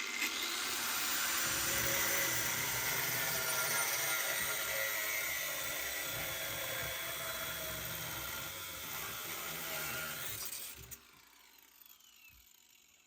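High-pitched handheld power tool cutting through the old wet exhaust fitting: the final cut. It runs steadily for about eleven seconds, then stops and winds down with a falling whine.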